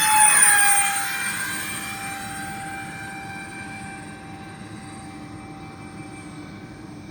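Electric ducted-fan RC model airliner passing close by, its fan whine peaking in loudness about half a second in and dropping slightly in pitch, then fading to a steady, quieter whine.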